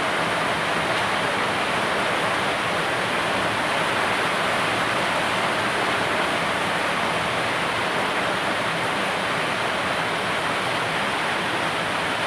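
Chicken deep-frying in hot oil, a steady, even sizzle.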